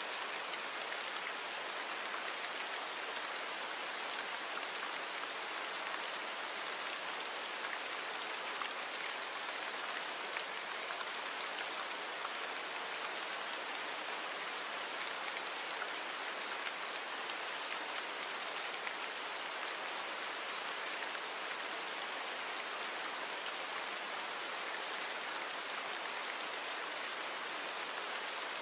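Steady rain falling: an even hiss with fine patter of drops, mostly high-pitched with little low rumble, from a natural rain recording that has been noise-reduced.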